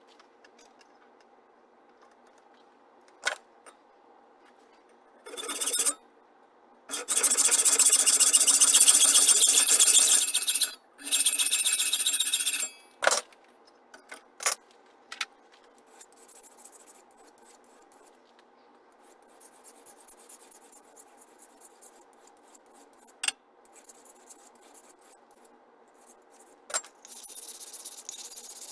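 Metalworking on aluminium or brass: loud rasping bursts about five, seven and eleven seconds in, over a faint steady hum, with a few sharp clicks. A steady hiss starts near the end.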